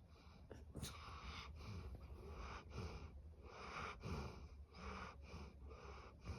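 Goldendoodle snoring in its sleep: quick, quiet breaths about two a second, with a low falling rumble on several of them.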